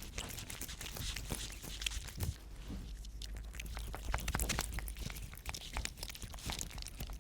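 Cats chewing crunchy fish treats: a quick, irregular run of small crunches.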